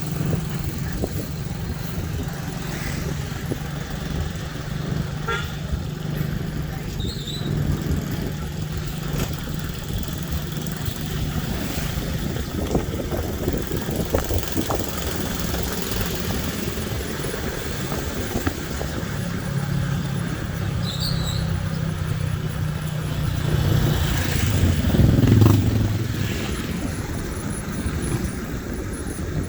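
Motorcycle engine running steadily, getting louder for a moment about 25 seconds in.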